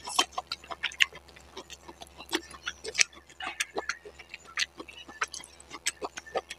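Close-miked chewing of a mouthful of spicy noodles: a run of sharp, irregular wet mouth clicks, several a second.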